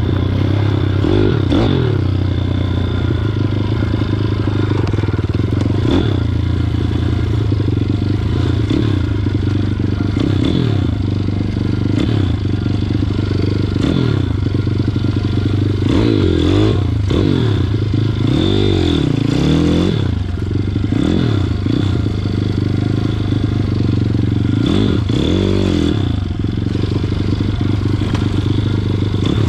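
WPB 160 pit bike's single-cylinder four-stroke engine running under a rider, revving up and falling back several times, with a cluster of revs in the middle.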